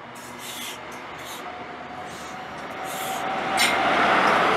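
ScotRail InterCity High Speed Train moving along the platform: the coaches roll past and the noise builds as the rear Class 43 diesel power car passes close, loudest about three and a half seconds in, with a steady tone through the second half and a sharp click as it comes by.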